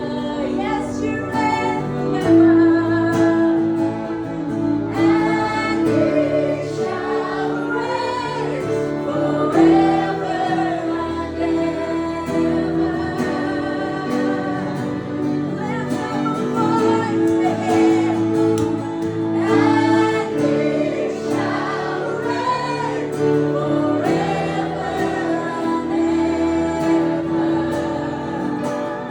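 Live acoustic worship music: singing over long held chords with a bass line underneath.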